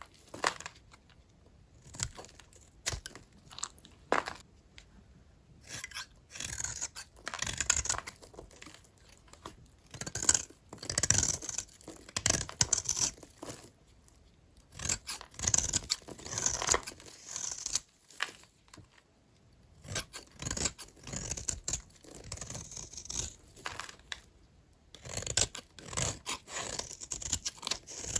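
A blade cutting through small bars of old, dry soap: repeated crunchy scraping strokes in clusters, with sharp clicks in between.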